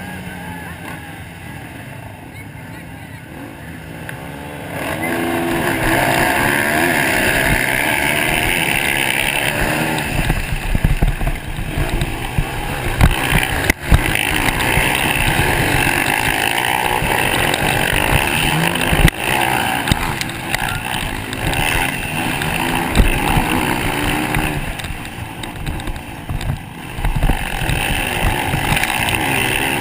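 Motocross bike engines running and revving, their pitch rising and falling as the throttles open and close; the engine noise gets clearly louder about five seconds in.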